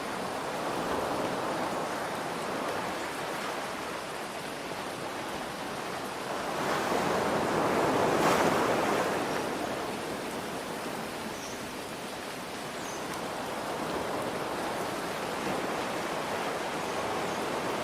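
Ocean waves breaking and washing in over steady rain, in slow swells, with one larger wave rising to a peak about eight seconds in and then falling away.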